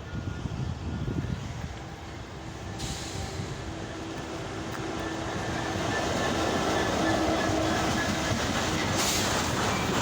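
Goods train rolling in past the platform: its rumble grows steadily louder over the first several seconds, then holds, with a faint steady whine. A sharper rushing hiss comes in near the end.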